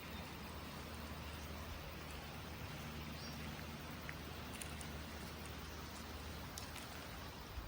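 Hatea River water running steadily, a constant even rush with a few faint ticks over it.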